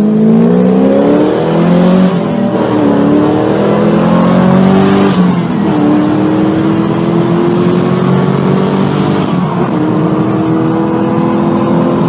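Car engine accelerating hard, its pitch climbing and dropping sharply at three gear changes.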